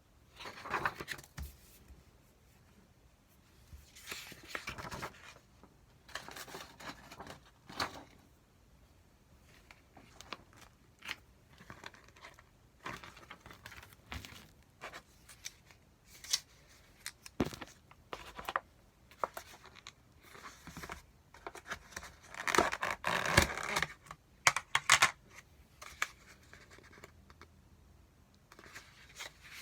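Delivery food packaging being torn open and handled: plastic film tearing and crinkling in irregular bursts, with small clicks and knocks. The loudest burst comes a little past two-thirds of the way in.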